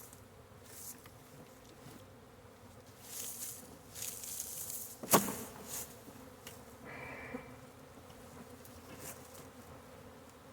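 Honey bee swarm buzzing with a faint steady hum, with rustling from handling partway through and a single sharp knock about five seconds in.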